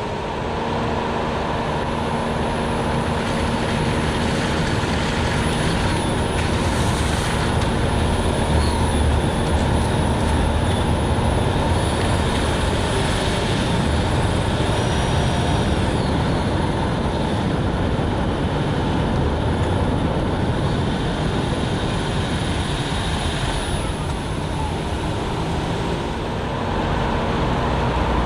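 Steady road noise from a Nissan Note e-POWER driving on a rain-soaked road, an even hiss of tyres through standing water with a faint steady hum underneath.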